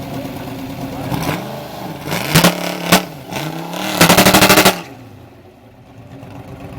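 Vintage drag racing car engine idling, then blipped sharply twice and revved hard for under a second with a rapid staccato crackle, before dropping back to a lumpy idle.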